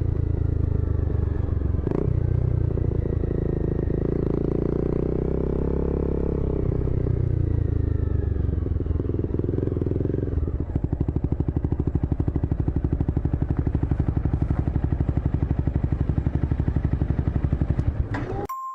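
Motorcycle engine running, its pitch rising and falling for the first ten seconds, then settling into a steady, even rapid pulsing from about halfway in. It cuts off suddenly just before the end.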